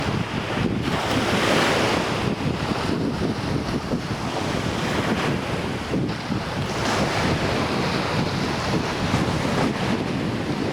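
Sea waves washing onto a beach, a steady rushing with gentle swells, with wind buffeting the microphone.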